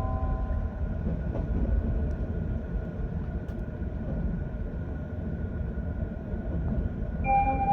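Running noise inside a JR East 185 series electric train car: a steady low rumble of wheels and traction motors with a faint constant tone above it. Near the end the train's onboard chime melody begins.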